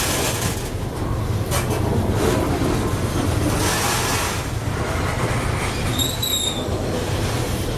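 Freight train rolling past with a steady low rumble of wheels on rail, and one short high-pitched wheel squeal about six seconds in.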